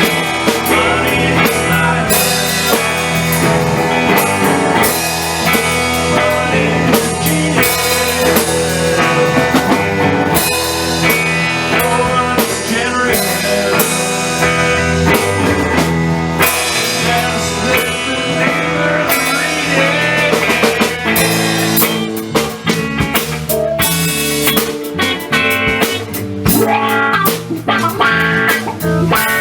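Instrumental break of a blues-style band song: guitar over a drum kit. The drum hits come through harder in the last third.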